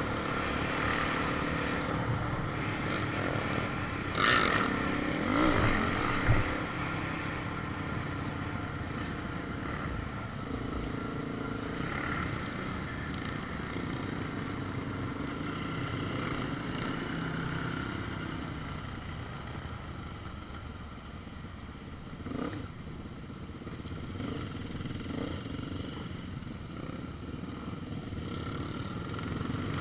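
A motor vehicle's engine running steadily, easing off a little about two-thirds of the way through and then picking up again, with a few sharp knocks and rattles in the first several seconds.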